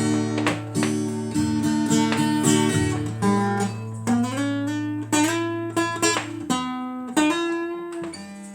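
Guitar music: an instrumental passage of picked and strummed guitar over a held low note that drops out near the end.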